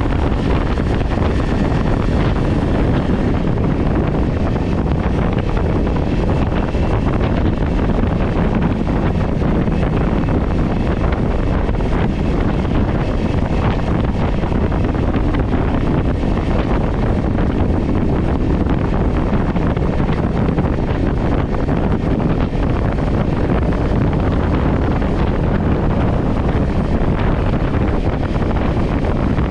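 Steady wind rush buffeting a GoPro microphone on a Kawasaki Ninja 400 motorcycle at riding speed, with the bike's parallel-twin engine running underneath.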